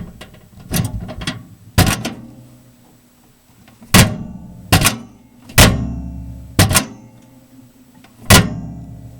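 Microwave oven door being popped open and slammed shut again and again, a series of about eight sharp clunks, each with a brief metallic ring.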